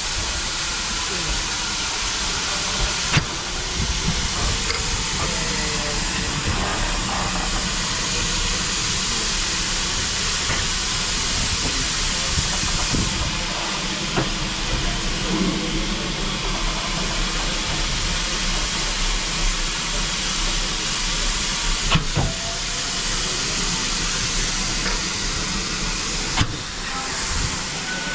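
Steam locomotive 5526, a GWR small prairie tank, giving off a steady hiss of steam, with a few sharp knocks.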